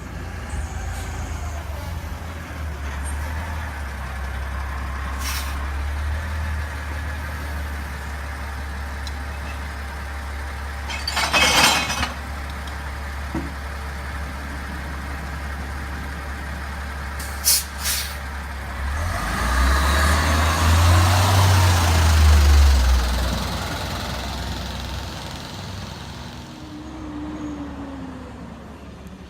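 CNG garbage truck engine running with a steady low rumble. About eleven seconds in comes a short air-brake hiss and, a few seconds later, two sharp clanks. The engine then revs up, its loudest point, before fading away.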